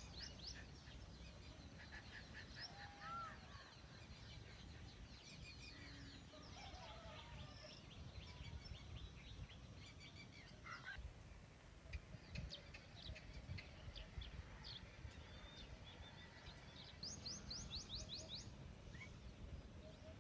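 Faint outdoor ambience of several birds calling in quick runs of high chirps, with now and then a short gliding whistle, over a low steady rumble.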